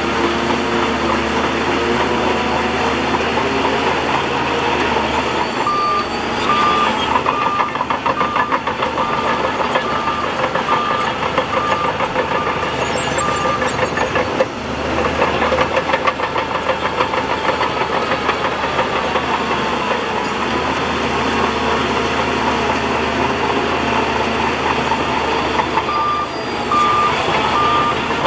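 Earthmoving machinery's diesel engines running continuously at a worksite. A reversing alarm beeps about once a second for several seconds about a fifth of the way in, and starts again near the end.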